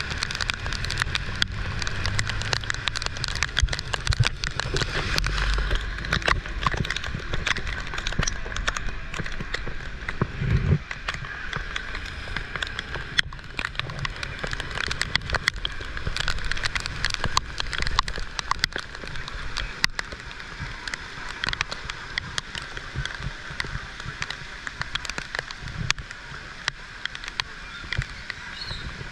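Heavy rain pattering steadily, a dense crackle of many drops, with a low rumble in the first few seconds and a single thump about ten seconds in.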